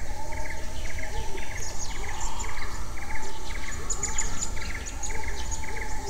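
Forest birds calling: one short rattling call repeated about twice a second, with high thin chirps from other birds over it and a low background rumble.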